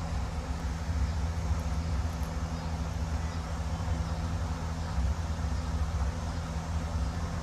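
Steady low hum of an engine or motor running, even throughout with no change in speed.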